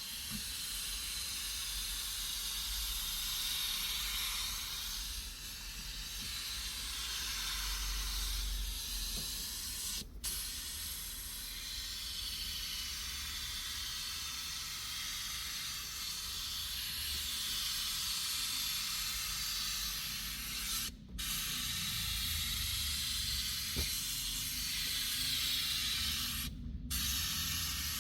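Pressurized spray gun hissing steadily, with three short breaks where the spray stops for a moment.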